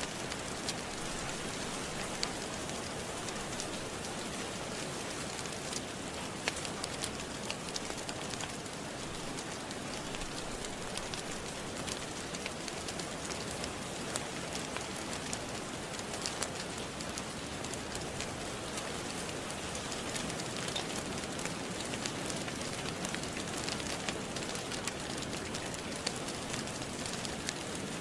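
Steady rain falling, with many small scattered crackles and pops, as of a gentle fireplace fire.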